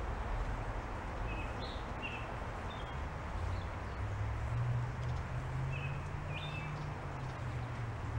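Small birds chirping sparsely, a handful of short high calls, over a steady outdoor background hiss and a low hum.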